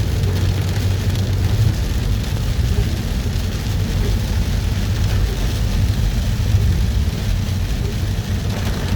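Car driving in heavy rain, heard from inside: steady low road and engine rumble with the hiss of rain on the car.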